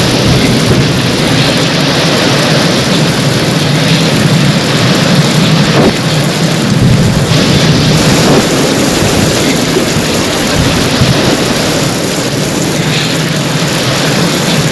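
Heavy rain pouring steadily, with a low rumble of thunder underneath.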